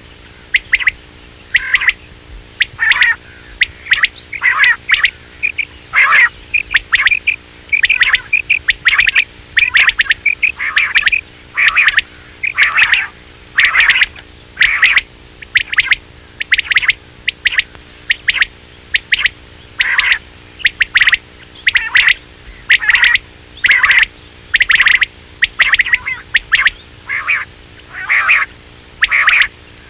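Quail calls from a hunting lure recording. Short, sharp calls repeat about once or twice a second, often in quick clusters, throughout, with a faint steady hum beneath.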